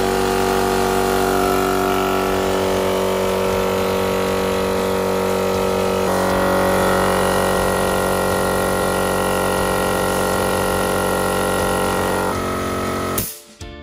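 Wolf Air Sioux 25 electric air compressor running from its first start, its motor and pump going steadily as it builds pressure in the tank, then stopping abruptly near the end.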